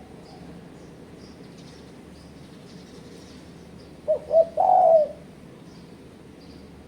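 Spotted dove cooing once about four seconds in: two short notes followed by a longer, slightly wavering coo, lasting about a second. Faint high chirps of small birds repeat throughout.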